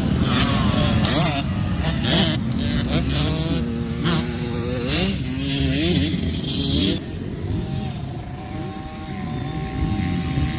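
Dirt bike engine accelerating. Its pitch climbs and drops several times as it revs up and changes gear, then holds a steady pitch for the last few seconds.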